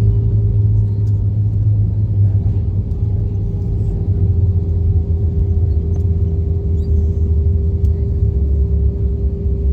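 Airbus A320 cabin noise: a steady low rumble of the engines and airflow with a constant hum running under it.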